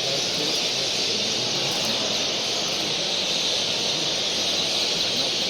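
A steady, dense chatter of many small finches chirping at once, as in a crowded aviary.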